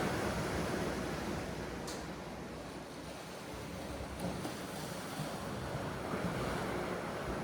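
Sea surf washing on the shore with wind: a steady rushing noise that swells and eases slowly.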